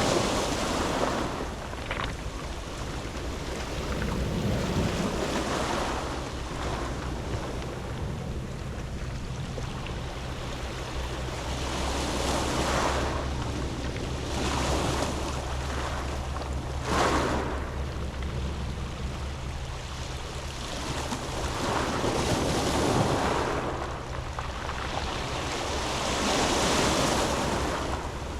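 Waves breaking and washing back over a pebble beach, swelling and fading every few seconds, with one sharper surge about two-thirds of the way through. A steady low hum runs underneath.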